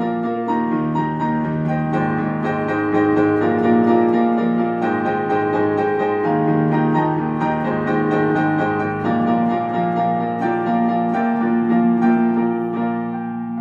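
Instrumental keyboard passage: chords held and changed every second or so, with no singing.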